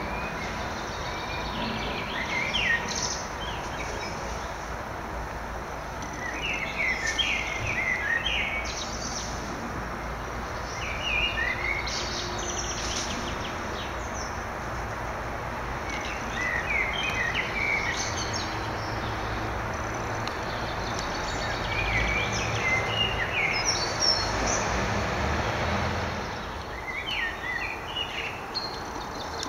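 A songbird singing short, chirpy phrases about every five seconds over a steady outdoor background hiss, with a low rumble in the later part.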